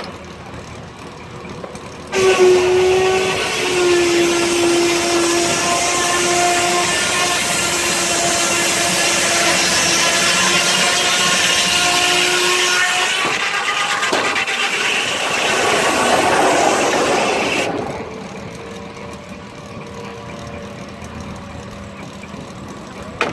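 Steam whistle blown in one long steady blast of about fifteen seconds, with a strong hiss of steam under the tone. It starts and stops abruptly, and near the end the tone gives way to a rush of escaping steam.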